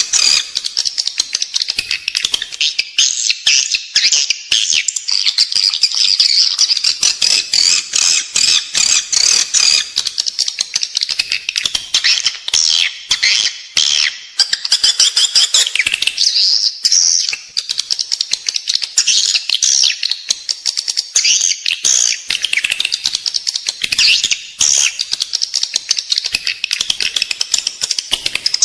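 Edible-nest swiftlets chattering: a dense, continuous stream of rapid high twitters and clicks. This is the 'inside-building' swiftlet call played in swiftlet houses to lure the birds in to roost and nest.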